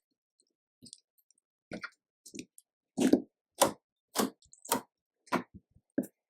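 Slime being squished and mixed, making a series of short wet squishes and clicky air-bubble pops, about two a second, loudest around the middle.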